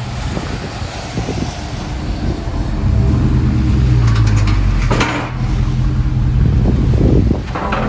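A 2020 Dodge Charger Scat Pack's 6.4-litre HEMI V8 running at low speed on its stock exhaust, mufflers still fitted, growing louder about three seconds in as the car pulls close. A brief clatter comes about five seconds in.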